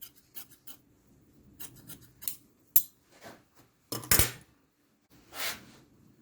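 Small hard parts being handled: a string of light clicks and rustles, a sharp knock a little under three seconds in, a louder clatter about four seconds in and a short swish near the end.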